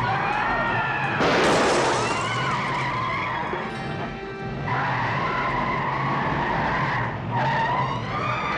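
A car's tyres squealing and skidding as it tears off and swerves at speed, with a loud burst of tyre noise about a second in and renewed squeals later, over background music.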